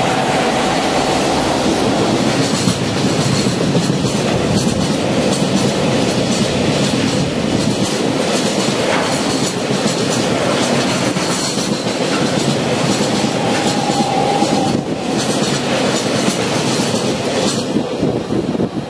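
Freight train wagons passing close by, a steady heavy rumble with rhythmic clickety-clack of the wheels, and a brief faint wheel squeal near the start and again later.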